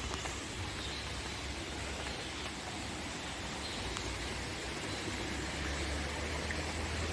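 Steady rushing of a small stream, with a low rumble underneath that swells near the end.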